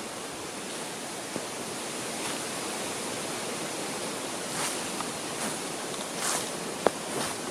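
Wind rushing through the trees, a steady hiss like surf. About halfway through, footsteps start crunching on the woodland floor at a steady walking pace, with one sharp snap near the end.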